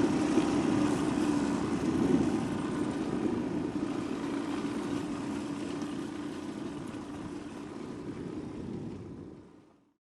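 Motorcycle engine running steadily, with rushing wind noise, slowly getting quieter and then fading out to silence near the end.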